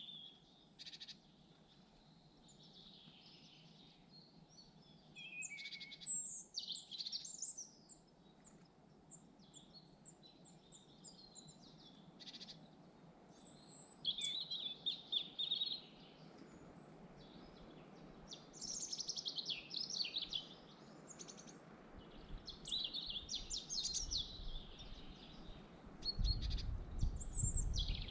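Several forest birds singing and chirping, overlapping high phrases coming and going throughout. Toward the end low wind rumble buffets the microphone.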